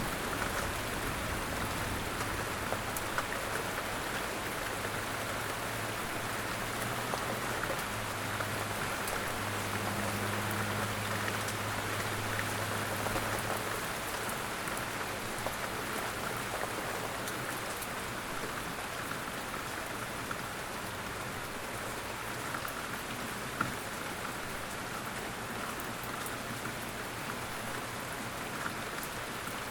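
Steady heavy rain falling in a dense hiss, with scattered sharper drop ticks. A low rumble sits under it through the first half and then fades.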